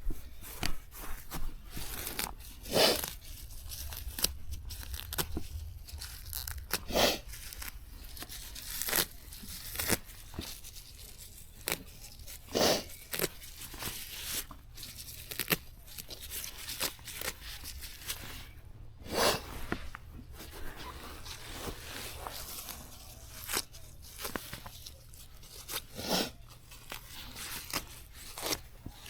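Plants being torn, plucked or snipped in quick, irregular rips and snaps, with a longer, louder rip every several seconds.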